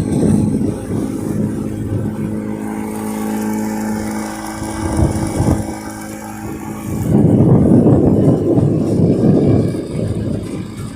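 Safari boat's outboard motor running steadily while under way, with a louder rushing noise coming in about seven seconds in.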